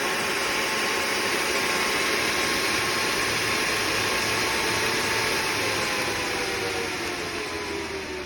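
Small brushless fan for air-conditioned work clothing running at high speed with a loud rush of air and a steady whine. About two-thirds of the way in, the whine falls in pitch and the air noise eases as the fan slows down.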